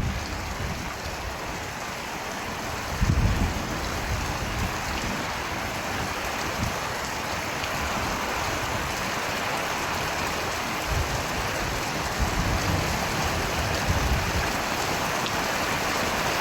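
Steady, dense rainfall hissing, with a few brief low rumbles about three seconds in and again in the second half.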